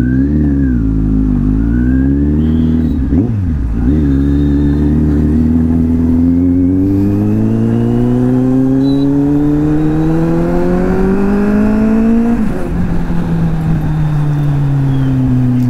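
Kawasaki Z800's inline-four engine pulling away and accelerating. The revs swing up and down in the first few seconds, then climb in one long steady rise. Near the end they drop sharply at a shift or roll-off and fade slowly as the bike eases off.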